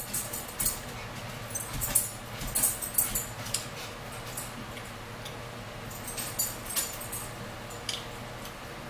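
Close-miked eating sounds: chewing and wet lip smacks in short clusters of clicks, over a low steady hum.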